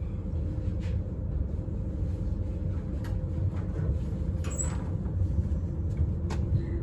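Steady rumble of a passenger train running, heard from inside the carriage, with a few faint clicks.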